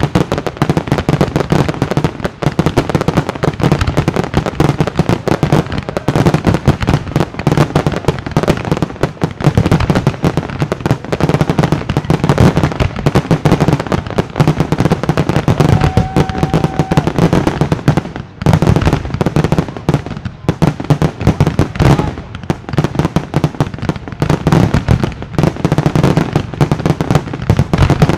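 Professional fireworks display: aerial shells bursting in a dense, nearly unbroken barrage of reports. There is a short steady tone about halfway through.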